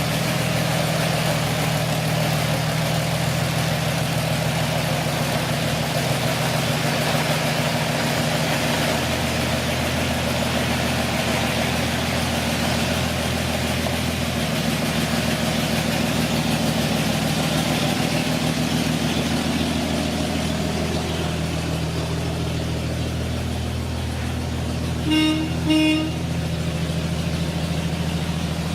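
A 1950 Chevrolet 3100 pickup's 235 cubic-inch Blue Flame straight-six running steadily as the truck comes in. Two short horn toots sound close together near the end.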